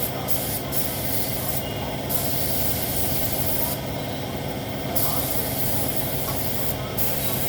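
Compressed-air paint spray gun hissing as panels are sprayed. The trigger is released for short breaks several times, the longest lasting about a second.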